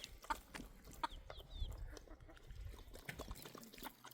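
Faint bird calls: short falling chirps repeated irregularly, mixed with scattered light clicks and knocks.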